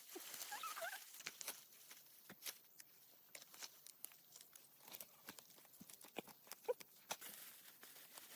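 Faint scattered clicks and rustling, with a short wavering animal call about half a second in and another brief call near the end.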